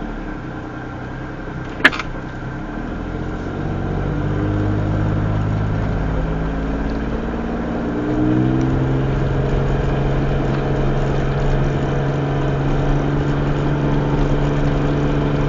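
Car engine and road noise from inside a moving car, the engine note changing pitch in steps twice, about four and eight seconds in, as it picks up speed. A single sharp click about two seconds in.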